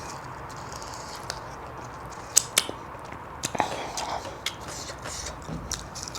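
A person eating close to the microphone: chewing, with scattered sharp crunchy clicks, a few louder ones near the middle.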